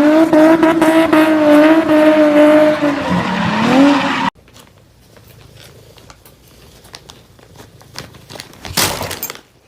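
One loud, drawn-out call that rises at the start, holds for about four seconds, dips and rises again, then cuts off suddenly. A short loud noise follows near the end.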